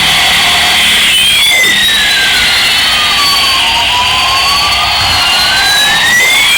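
Battery-operated toy airliner playing its electronic jet-engine sound over a steady high hiss, with a tone that sweeps slowly down and then back up again, like a passing jet.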